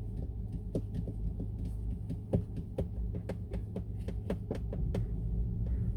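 Steady low rumble of a car's engine and road noise heard inside the cabin, with a run of sharp clicks, several to a second, through the middle.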